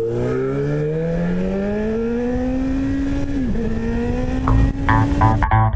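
Honda CB1000R inline-four engine accelerating under load, its pitch rising steadily, with a short drop at a gear change about three and a half seconds in, then running steadily. Guitar and bass music comes in near the end.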